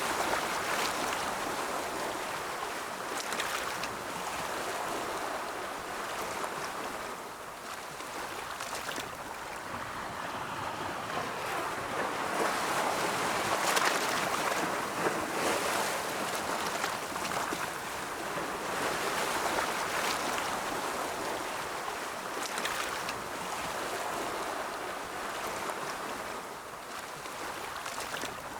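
Ocean surf: waves breaking and washing in one after another, a steady rush that swells and eases every few seconds, loudest a little under halfway through.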